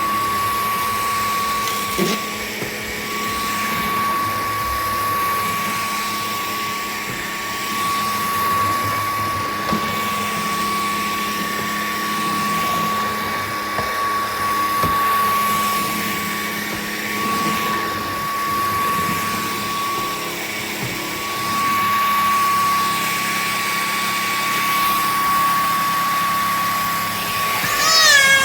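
Cordless stick vacuum cleaner running: a steady high motor whine over the rush of suction air.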